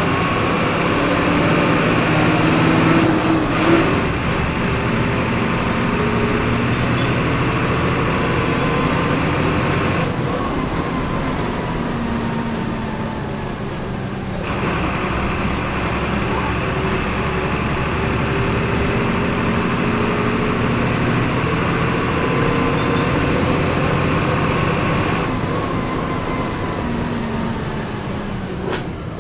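Volkswagen 17.230 EOD city bus's diesel engine heard from inside the bus, pulling hard: its pitch climbs, breaks at gear changes and climbs again several times as the bus accelerates and slows.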